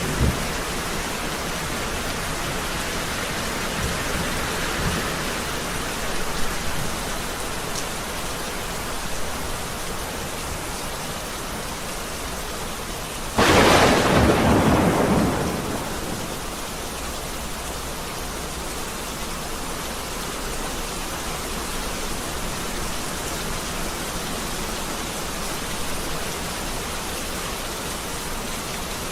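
Heavy rain falling steadily in a thunderstorm, with a sudden loud thunderclap about halfway through that fades out over a couple of seconds. Low thunder rumbles in the first few seconds.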